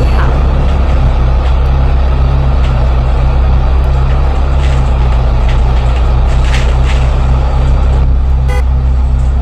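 Bus engine running steadily under way, heard loud from inside the cabin as a constant low drone, with a few short rattles and clicks over it.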